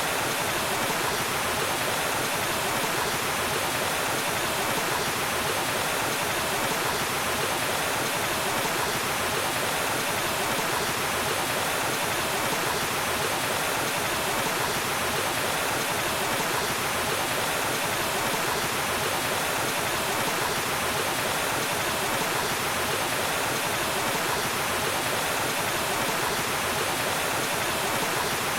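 Waterfall: water falling and rushing in a steady, even hiss with no pauses or changes.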